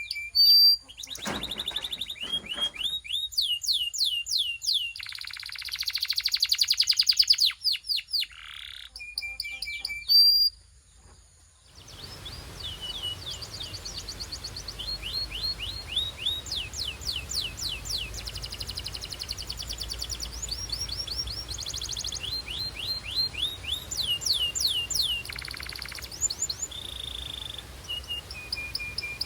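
Belgian canary singing: runs of quickly repeated falling whistled notes and rapid trills. A short pause comes a little before halfway, then the song resumes over a steady background hiss.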